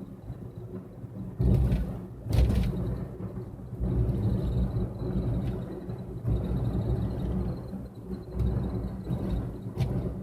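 Low, steady rumble of a car driving, as picked up by a dashboard camera inside the car. Two loud thumps come about a second and a half and two and a half seconds in, and a faint thin high whine runs through the middle.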